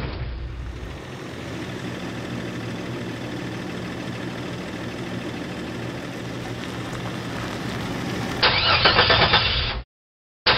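Mahindra Scorpio SUV's engine running steadily as the vehicle drives. Near the end a louder, choppy sound cuts in and stops abruptly.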